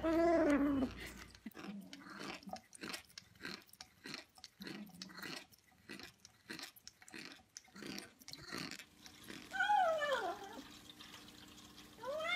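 A cat's drawn-out call that ends under a second in, then several seconds of irregular clicks of a cat chewing, then two short meows that rise and fall in pitch near the end.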